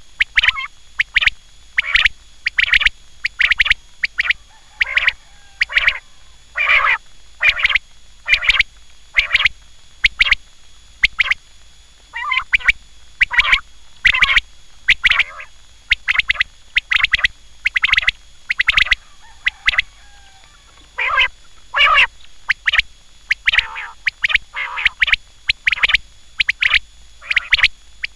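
Quail calling over and over: short, sharp notes in quick clusters, about one cluster a second.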